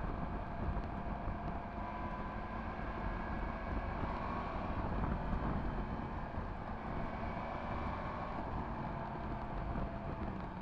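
Yamaha MT-10 SP's crossplane inline-four, fitted with an Akrapovič exhaust, running at steady riding revs. The engine note lifts a little around four seconds in and eases back near the end. Wind noise rushes on the microphone throughout.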